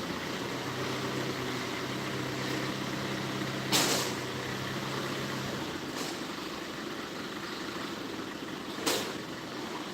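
Forklift engine running with a steady hum that drops away about halfway through, over a noisy working background, with two sharp clanks, one a few seconds in and one near the end.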